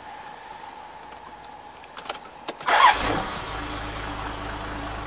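Diesel truck engine cold-started on freshly installed injection pump and injectors. After a few clicks, a brief crank catches about three seconds in, and the engine settles into a steady idle.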